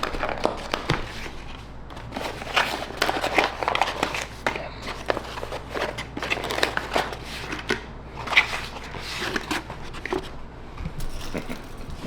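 Paper fast-food wrappers and bags crinkling and rustling in irregular short crackles as burgers and fries are unpacked and handled.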